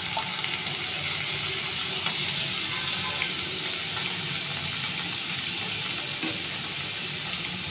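Chopped vegetables and onions sizzling steadily in hot ghee in a non-stick kadai, the vegetables just added on top of the sautéing onions.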